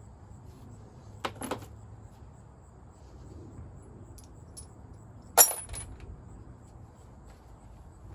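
Metal tools or parts clinking as they are handled and set down: two quick clinks about a second in, then a louder clink with a smaller one just after, a little past halfway.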